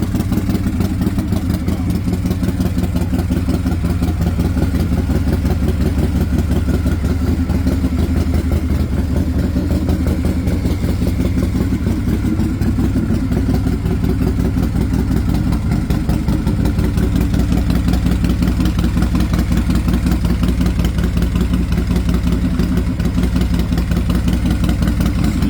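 Harley-Davidson Softail's RevTech 100 cubic-inch V-twin running at a steady idle with an even pulsing beat; the note rises a little about halfway through and settles again.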